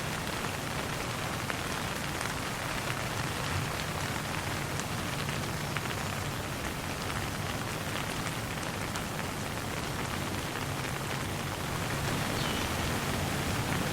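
Steady light rain falling on a surface, a constant hiss dotted with small drop ticks.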